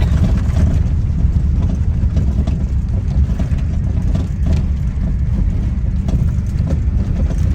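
Safari van driving on an unpaved park road, heard from inside the cabin: a steady low rumble of engine and tyres with a few faint knocks.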